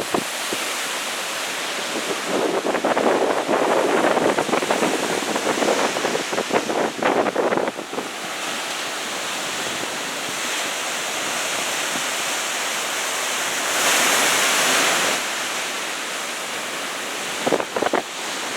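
Choppy, wind-blown surf breaking and washing on the beach, with gusts of strong wind buffeting the microphone. A brighter hissing swell of surf comes about two-thirds of the way through.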